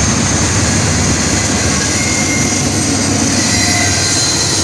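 Norfolk Southern freight train passing at close range: freight cars rolling by with a steady rumble of wheels on rail, and a faint high wheel squeal a couple of times midway.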